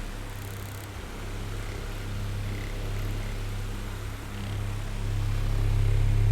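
Oscillating electric fan running with a steady low motor hum and a soft whir of moving air; the sound dips in loudness early on and swells back up near the end.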